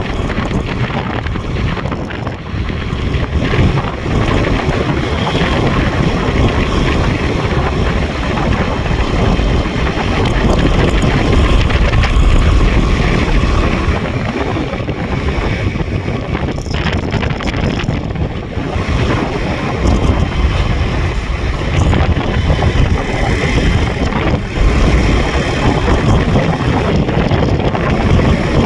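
Heavy wind buffeting the microphone on a moving motorbike, with the bike's engine running underneath. The rush rises and falls unevenly throughout.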